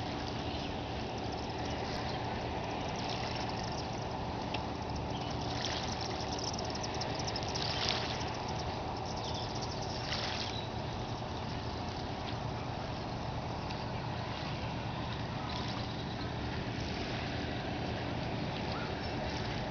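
Oars of a small rowboat dipping and pulling through the water: trickling and splashing, with louder swishes every couple of seconds, over a steady low hum.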